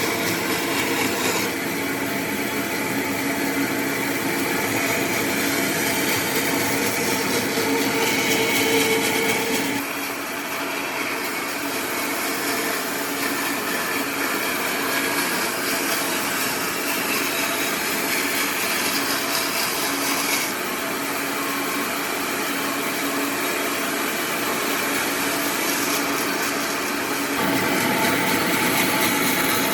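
Electric power tools working wood: a steady whine with a hiss of cutting or sanding that changes abruptly several times as one tool or pass gives way to another.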